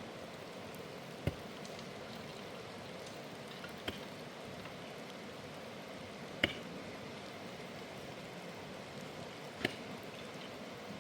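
Steady rain falling, with four sharper taps of heavier drops scattered through it.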